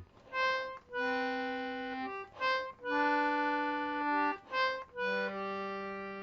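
Anglo concertina, a 19th-century George Jones in G/D, playing an instrumental phrase between sung verses: a run of held reedy notes and chords with short breaks between them, settling on a long sustained chord for the last second or so.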